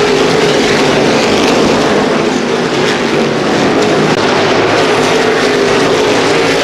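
Pack of NASCAR Whelen Modified race cars running at speed, a loud continuous drone of V8 engines on the throttle whose pitch slides down slowly.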